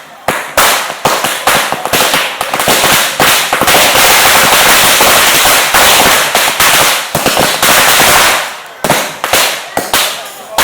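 Firecrackers going off in a rapid barrage of loud bangs that merge into a continuous crackle for several seconds in the middle, then thin out to separate bangs near the end.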